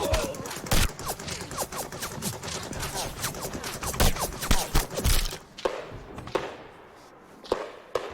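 Battle gunfire in a First World War film: a dense run of rifle and machine-gun shots and hits for about five seconds, thinning to a few scattered thuds near the end.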